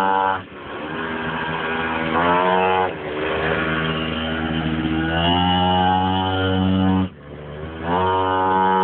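Pocketbike's small two-stroke engine on its stock exhaust, revved up and down several times, with a sharp drop in revs about seven seconds in before it climbs again. The stock exhaust is very loud and gives the bike no power.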